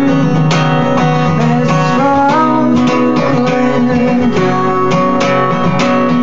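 Acoustic guitar strummed in a steady rhythm, about two strokes a second, playing the song's chords between sung lines.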